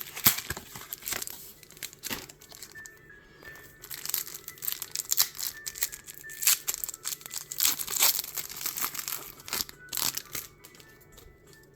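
Crinkling and tearing of plastic blister packaging and foil Pokémon booster-pack wrappers as a pack is opened, in a quick irregular run of crackles.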